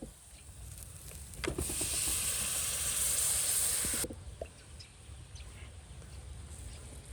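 A steady, loud hiss lasting about two and a half seconds that cuts off suddenly, with a few light clicks and knocks around it.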